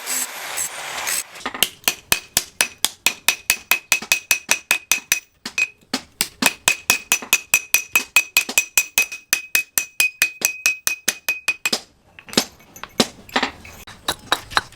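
Hand hammer striking steel in a fast, even run of about four to five blows a second, each with a bright metallic ring. There is a short pause partway through, and a few scattered knocks after the run stops.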